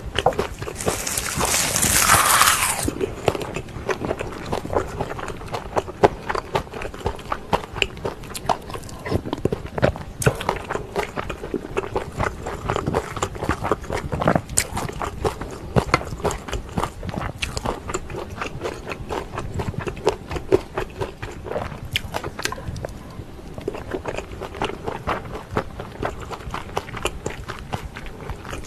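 Close-miked eating: a loud crackling bite into a rice wrap of dried laver (gim) about a second in, then steady chewing with many small wet mouth clicks.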